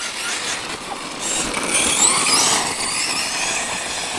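Tekno MT410 2.0 RC monster truck driving, its electric motor whining up and down in pitch with the throttle over the rushing noise of tyres on rough ground, loudest in the middle.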